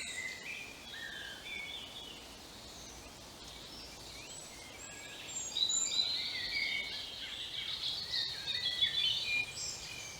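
Birds singing in a wood: quick, high chirping and warbling phrases, sparse at first and busiest in the second half.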